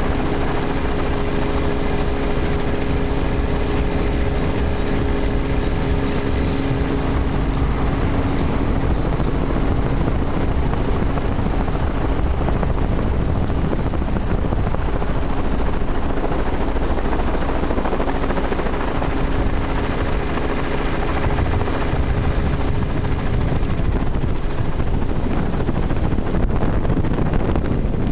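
Helicopter running in flight, a steady dense rotor and engine noise. A steady engine hum sits under it for the first eight seconds or so, then fades, leaving the rushing noise.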